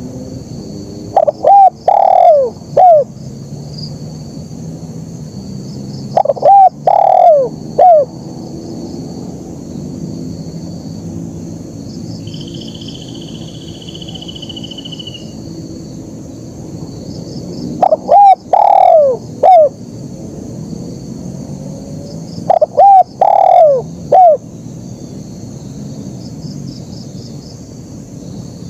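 Spotted dove cooing its three-note 'kuk' phrase four times: twice near the start and twice after a long pause in the middle. A steady high buzz runs behind, with a brief high trill near the middle.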